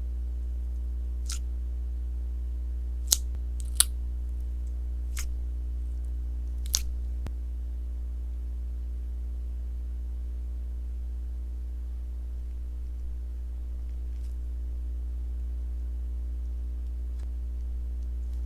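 Sponge slime being worked by hand, giving a few sharp, crisp pops in the first seven seconds and two faint ones later, over a steady low hum.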